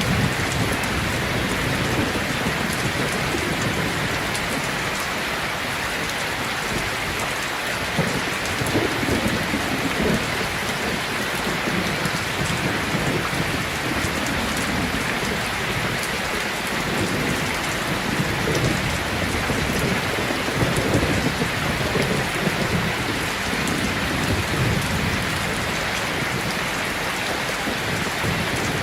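Steady rain pattering, with low rolls of distant thunder swelling up about eight seconds in and again around twenty seconds.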